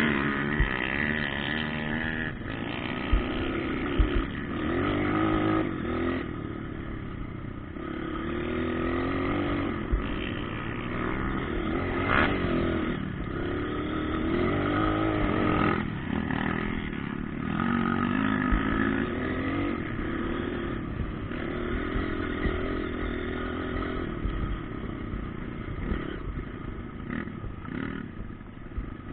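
Motocross bikes' engines revving up and down as they ride the track, the pitch rising and falling over and over, with a few sharp knocks.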